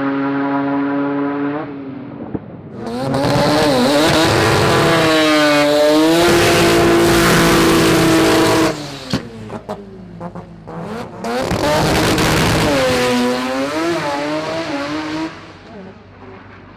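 Drag racing car engines at high revs: first held steady, then revving hard and wavering with a rush of tyre noise in two loud stretches, with a short lull between them.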